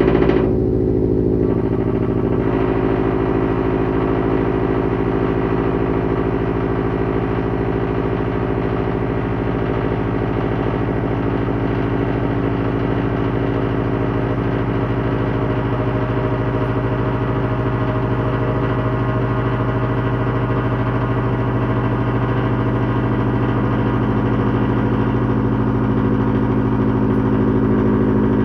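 2021 Subaru WRX STI's turbocharged 2.5-litre flat-four idling steadily through a Remark cat-back exhaust with muffler deletes and a non-resonated mid pipe.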